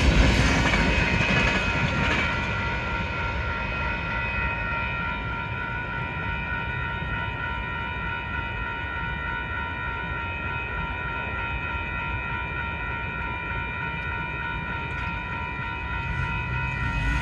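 Tank cars of a long freight train rolling past with a steady rumble that eases off over the first few seconds. Several steady high-pitched ringing tones sit over it throughout.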